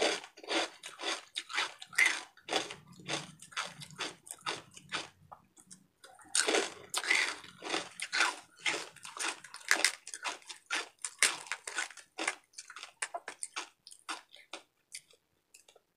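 Chewing and biting into crispy deep-fried pork belly (bagnet), with many quick, irregular crunches that thin out over the last few seconds.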